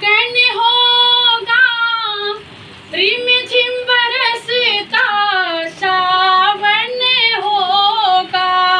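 A woman singing an unaccompanied Awadhi-style birthday folk song in a high voice, in long held phrases with a brief breath about two and a half seconds in.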